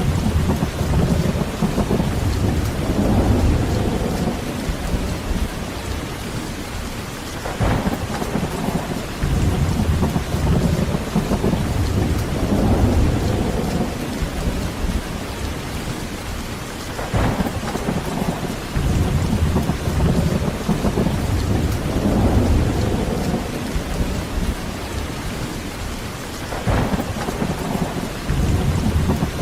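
Heavy, steady rain with rolling thunder that swells and fades about every ten seconds. A sudden sharp thunder crack comes three times, evenly spaced about ten seconds apart.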